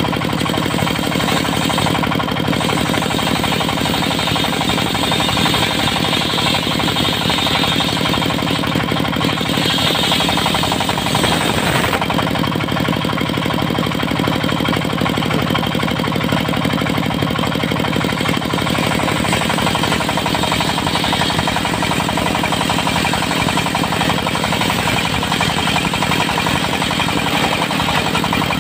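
Diesel engine of a portable circular-saw sawmill running steadily with a rapid, even pulse, and a brief brighter, higher sound about ten seconds in.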